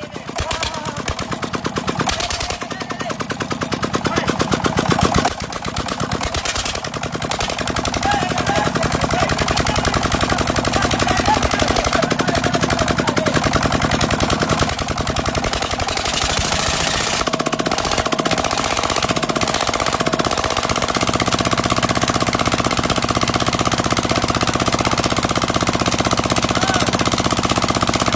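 Diesel engine running with a rapid, even knocking beat. It picks up over the first several seconds and settles into a steady run.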